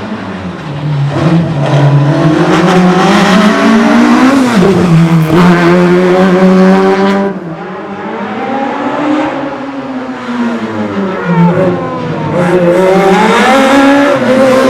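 Small-engined racing prototype running hard through a slalom course, its engine pitch repeatedly climbing and then dropping sharply: a sudden drop about four seconds in, a lift with a dip in loudness about seven seconds in, and another dip near twelve seconds before it climbs again.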